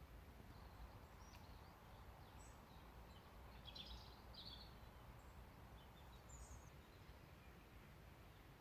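Near silence: faint outdoor ambience with a few short, distant bird chirps, the clearest about four seconds in.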